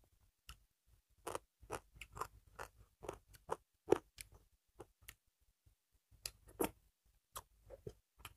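Close-up chewing and mouth sounds from eating rice and dal by hand: quick runs of short, sharp smacks and clicks, densest from about a second to four seconds in and again near the end.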